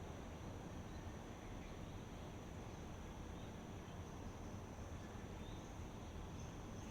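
Steady outdoor ambient hiss with a continuous high-pitched insect drone, like crickets, and a few faint short chirps.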